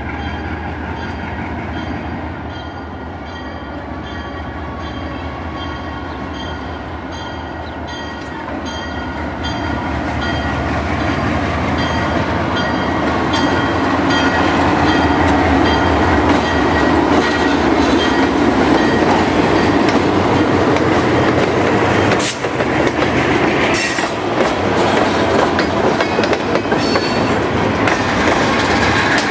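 A train rolling past, wheels clicking over the rail joints, growing louder about ten seconds in as it draws near. A high ringing repeats about twice a second through the first part.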